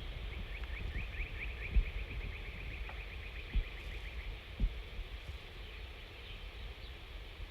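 A songbird singing a rapid trill of short falling notes, about eight a second, for roughly four seconds, over low wind rumble on the microphone with a few soft thumps.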